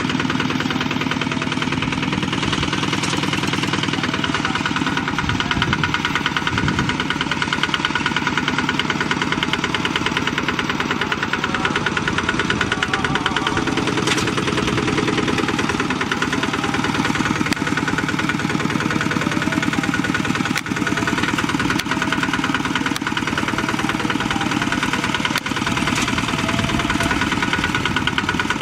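Bulldozer's diesel engine running steadily with a fast, even beat.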